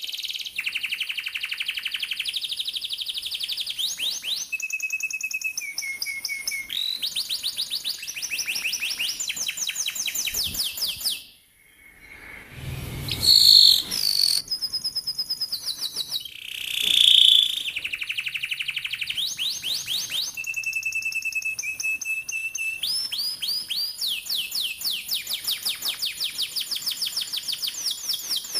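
Domestic canary singing long, fast rolled trills of rapidly repeated notes, moving from one pitch of trill to another phrase after phrase. About twelve seconds in, the song breaks off briefly, then a few louder, sharper notes come before the rolls resume.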